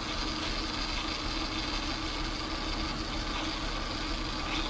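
Honda Accord V6 idling steadily while misfiring on one cylinder because of a dead ignition coil, with no spark crackle heard.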